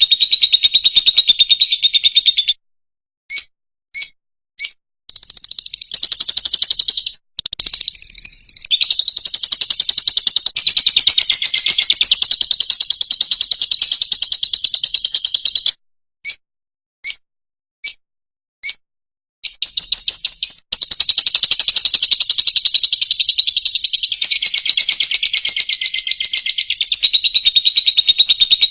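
Fischer's lovebird singing: long runs of rapid, shrill chattering twitter, broken twice by short pauses that hold a few single chirps.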